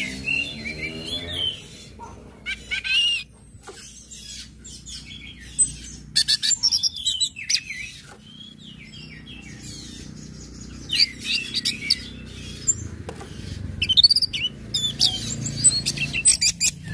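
Orange-headed thrush calling in short bursts of high, quickly changing chirps and trills, with five or so phrases spaced a few seconds apart.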